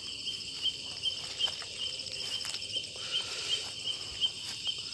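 Chorus of crickets and other night insects: a steady, regularly pulsing chirp and a continuous higher trill, with a few faint rustles and clicks.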